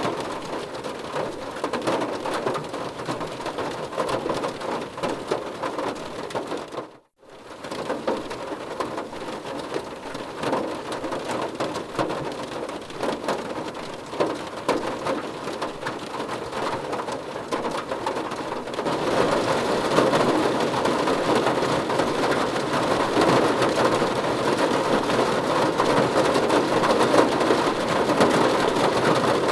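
Heavy rain falling steadily, dense fine pattering of drops on a surface. It cuts out briefly about seven seconds in and comes back louder and fuller near two-thirds of the way through.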